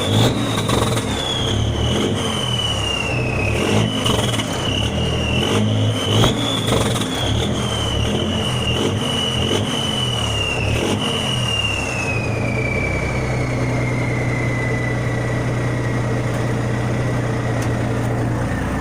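Volvo VNL 780 semi truck's diesel engine running with its muffler deleted, the revs rising and falling, with a loud high turbo whistle above. About twelve seconds in the engine settles to a steady note and the turbo whistle winds down, falling in pitch.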